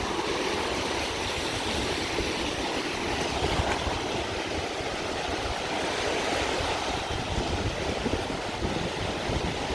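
Gulf of Mexico surf driven in strongly by the wind, washing onto the beach as a steady rushing noise, with wind buffeting the microphone as a ragged low rumble.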